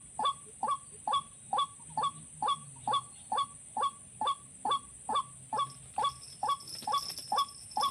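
White-breasted waterhen (ruak-ruak) calling: a fast, even series of short, harsh notes, about two a second, each dropping in pitch, over a steady high hiss.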